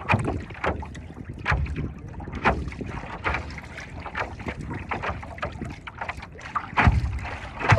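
Choppy seawater slapping and splashing against a paddleboard in irregular hits, with wind buffeting the microphone in low rumbling gusts, strongest near the end.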